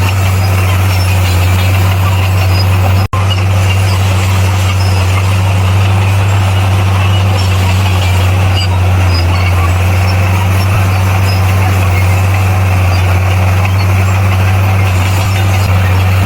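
Bulldozer's diesel engine running steadily under load, a loud unbroken low hum and rumble, with a split-second cut in the sound about three seconds in.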